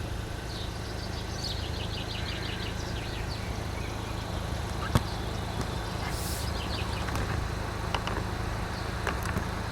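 Outdoor background: a steady low rumble, with a small bird twittering in quick trills about a second in and a single sharp click about halfway through. No train passes.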